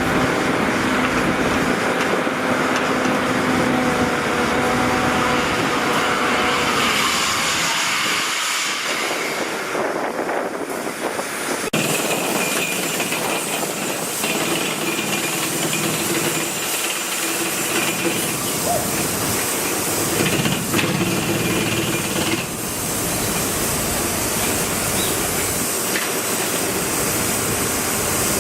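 Construction machinery running with a steady engine drone and hiss. The pitch of the drone shifts about seven seconds in and again around twenty-two seconds, with a single sharp knock near twelve seconds.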